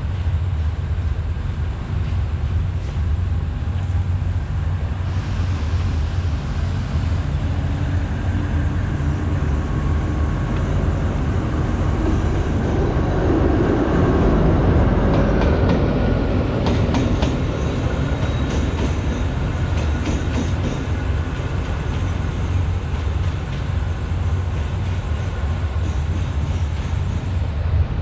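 A train passing along the tracks close by, its rumble swelling to a peak about halfway through, followed by a run of wheel clicks over rail joints. A steady low rumble lies underneath.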